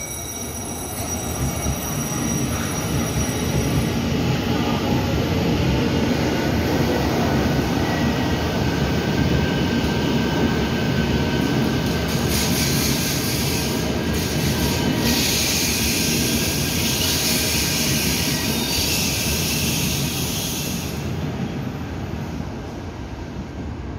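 Taiwan Railway electric multiple-unit train running along an underground station platform. The rumble of the carriages builds over the first few seconds and holds steady. A high hiss joins about halfway through for several seconds, and the sound fades near the end as the train moves off.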